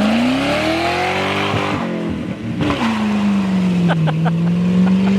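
Muffler-deleted 4.6-litre two-valve V8 of a New Edge Ford Mustang GT accelerating hard: the revs climb, break off for a gear change about two seconds in, then come back lower and climb slowly again.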